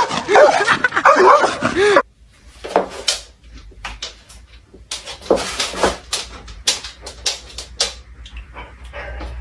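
A dog whimpering with rising and falling whines, then a quieter stretch of short, sharp barks and yips.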